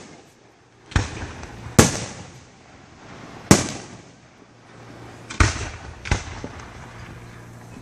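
Fireworks bursting: five sharp bangs, irregularly spaced about one to two seconds apart, each fading out over a moment.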